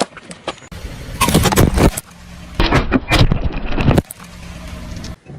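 A car's tyres rolling over and crushing objects, with dense crunching and cracking in two loud bursts over the low steady hum of the car's engine, in short cut-together clips.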